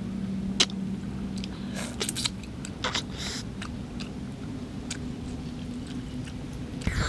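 A person chewing and eating cooked fish close to the microphone: wet mouth sounds with scattered sharp clicks and crunches. A low steady hum sits underneath.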